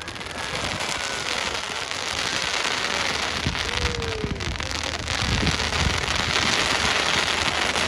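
Fireworks crackling densely, a rain-like hiss of many tiny pops with a few low thumps, growing louder over the first few seconds and staying loud.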